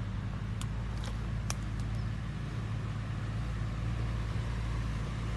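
Truck engine running steadily as a low, even drone, with a few faint light clicks in the first couple of seconds.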